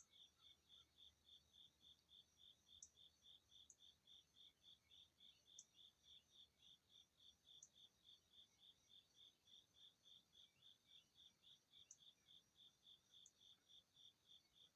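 Faint, steady insect chirping, typical of a cricket: short high chirps repeated evenly at about three to four a second, with a few brief higher ticks scattered over it.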